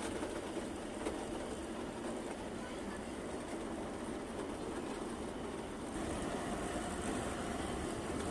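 Nilgiri Mountain Railway toy train in motion: a steady running rumble and rattle, a little louder from about six seconds in.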